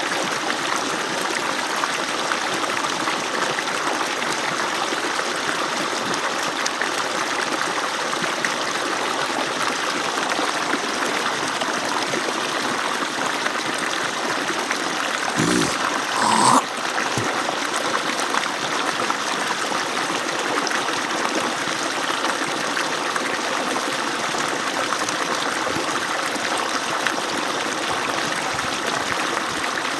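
Water pouring steadily from an agricultural pump's outlet, with a brief louder sound just past halfway through.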